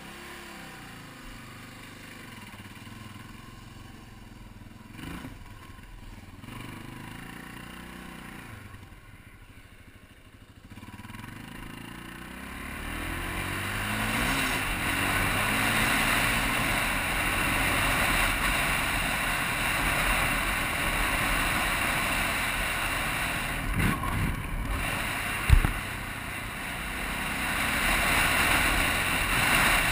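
Yamaha TTR250's single-cylinder four-stroke engine revving up and down. From about halfway, wind noise on the helmet-camera microphone builds and covers the engine. There is one sharp knock late on.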